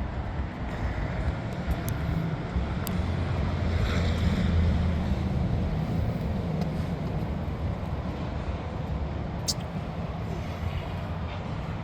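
A motorcycle engine running at low revs, its rumble swelling about four seconds in and easing off again.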